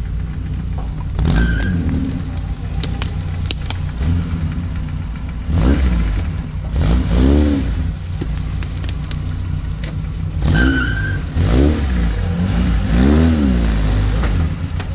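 Off-road vehicle's engine running under load, revved up and let back down several times in two spells as it claws through rough ground, with scattered knocks from the body and running gear and a short high squeal twice.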